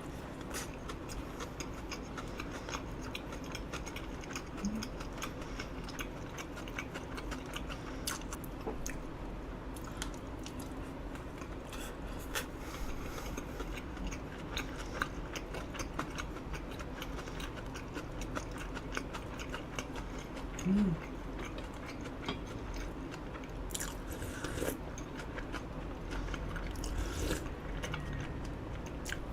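Close-miked chewing of eel and rice: soft, wet mouth clicks and smacks.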